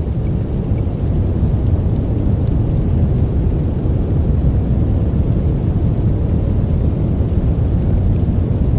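A steady, deep rushing noise track for sleep, weighted heavily toward the low end, with no breaks or changes.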